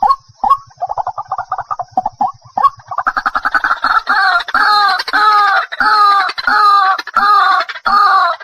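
White-breasted waterhen (ruak-ruak) calling, played as a lure: a few short single notes, then a rapid chatter, then about three seconds in a loud run of repeated gurgling 'kru-ak' calls, about two a second.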